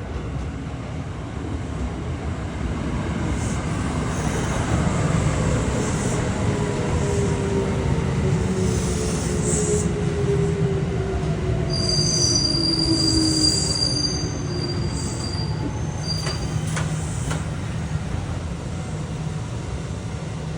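A Kintetsu electric train runs through the station with a heavy rumble of wheels on rail. The motor whine falls steadily in pitch as it slows, and there are high brake squeals about two thirds of the way through.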